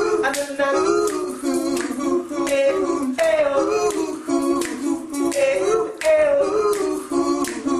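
Singing: held, gliding sung notes with sharp clicks or snaps among them.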